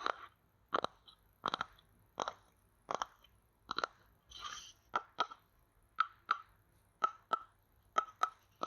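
A bamboo stick tapping and pressing close against the microphone in crisp, short taps: evenly spaced at first, then in quick pairs. A brief rustle comes about four and a half seconds in.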